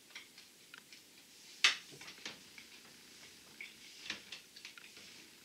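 Chewing crunchy jalapeño ranch pretzel bites: scattered crisp crackles and clicks, the loudest about one and a half seconds in and a few more near the four-second mark.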